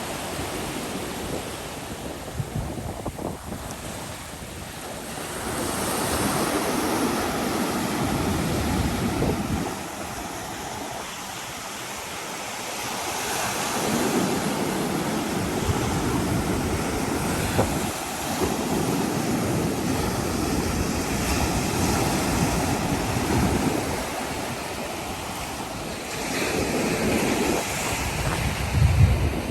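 Surf washing onto a beach, the waves swelling and easing back in slow surges several seconds long. Wind buffets the microphone, most strongly near the end.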